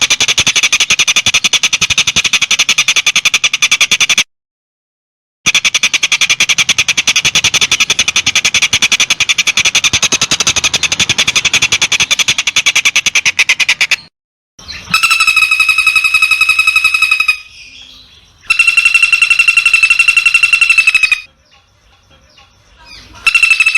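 Recorded bird-song master track: two long spells of very fast, buzzing pulsed trills, then about eight seconds later three shorter, clear ringing trills of a few seconds each. The spells are spliced with abrupt cuts between them.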